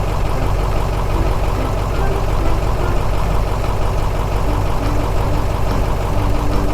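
Truck engine sound effect: a heavy engine idling steadily, with a rumbling low end.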